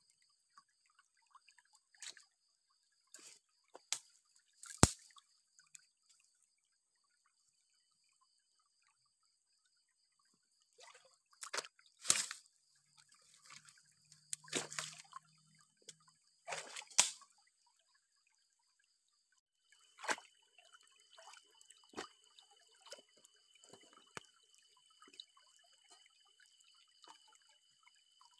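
Irregular water drips and small splashy knocks, in clusters with a quiet gap between them, over a faint steady high-pitched hum.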